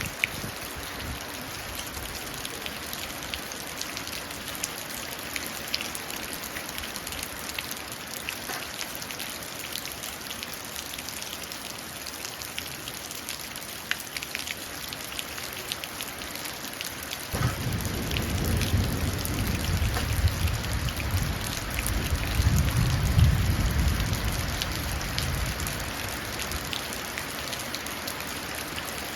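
Steady rain falling into puddles, a dense spatter of individual drops. About two thirds of the way through, a low rumble of thunder comes in, swells and dies away near the end.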